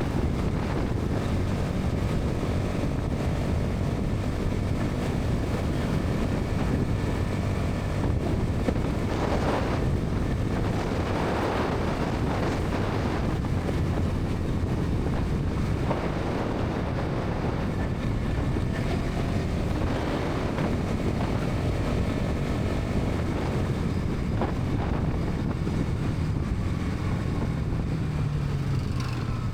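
Bajaj Pulsar NS 200's single-cylinder engine and exhaust running steadily at highway speed, mixed with heavy wind noise on the microphone. Near the end the engine note drops in pitch as the bike slows.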